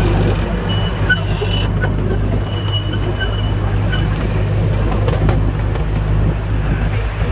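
Amusement-park ride train running, heard from on board: a steady low rumble.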